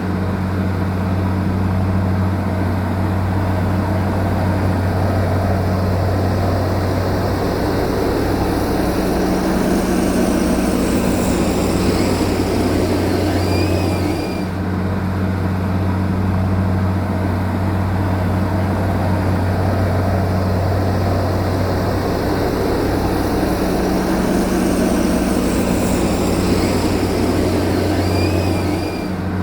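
Heavy earth-moving machine's diesel engine running steadily, a low drone. The same stretch of sound repeats about halfway through, as a loop.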